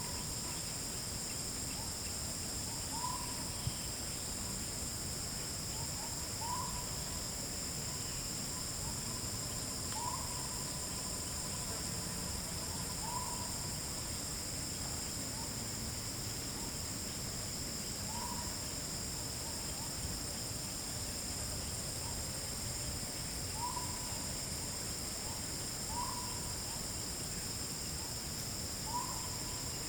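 A short, hoot-like rising note repeated every few seconds, a forest animal calling, over a steady high-pitched insect chorus.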